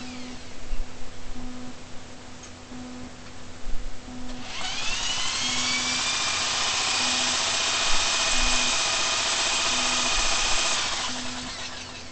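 Power drill used as a starter, cranking a Clinton 702 1.5 hp engine for a cold start. After a couple of knocks, about four seconds in it spins up in a rising whine, holds steady for about six seconds, then winds down.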